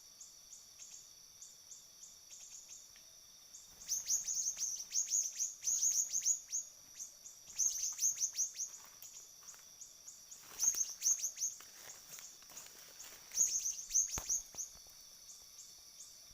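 Siri-siri bird calls: runs of rapid, high, quickly falling chirps, four runs starting about four seconds in, over a steady high hiss with faint regular ticking.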